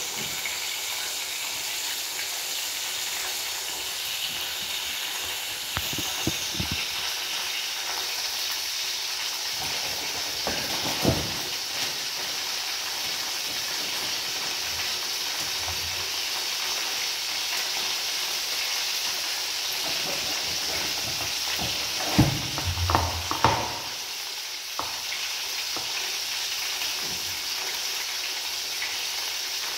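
Chicken frying in hot oil in a deep pan, a steady sizzle throughout, with a few short knocks and clatters near the middle and again about three quarters of the way in.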